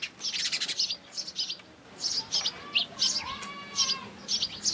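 Small birds chirping in many short, high calls, with a fast trill right at the start and a longer, lower call about three and a half seconds in.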